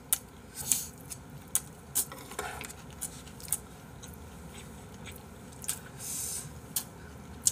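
Close-miked chewing of jokbal (braised pig's trotters): irregular short wet smacks and clicks, about a dozen, with a slightly longer squelch about six seconds in.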